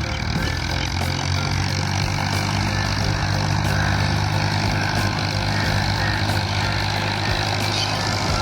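Tractor engine running steadily at a constant pace, cutting off abruptly at the end.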